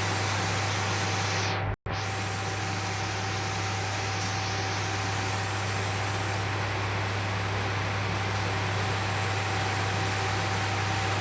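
Steady hiss with a low hum and a faint thin steady tone, cut off for an instant about two seconds in.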